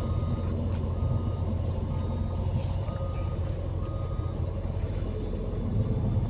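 Scania Irizar i5 coach heard from inside the cabin on the move, with a steady low engine and road rumble. Over it, a short electronic beep repeats about once a second.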